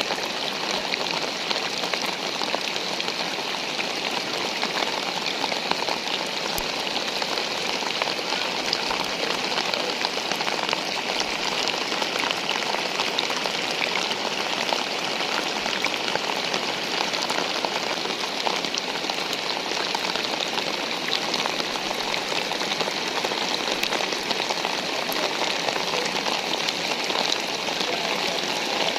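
Steady rain falling, a dense, even patter of many small drops that holds at one level throughout.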